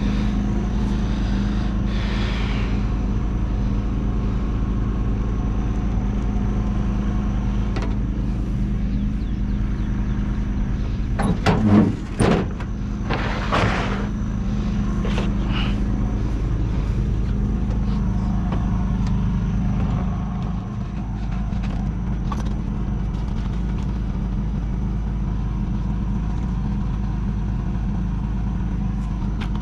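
John Deere 450C bulldozer's diesel engine idling steadily, with a few knocks and a short clattering burst about twelve seconds in.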